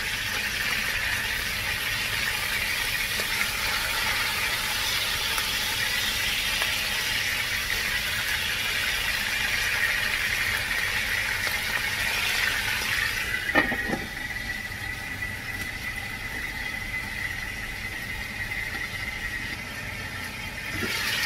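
Pork pieces frying in hot oil in a nonstick pan, a steady spattering sizzle. About two-thirds of the way through, a sharp clack as the glass lid goes on, after which the sizzle is muffled and a thin steady high tone carries on under it.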